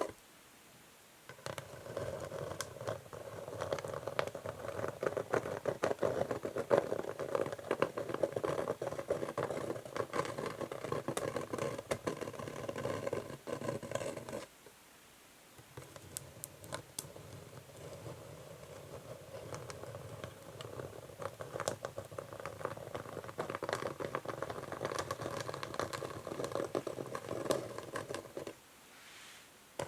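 Natural fingernails scratching over an old wooden chess board in two long runs of dense scratching strokes, each broken off by a short pause: one run starts about a second in and the other about halfway through.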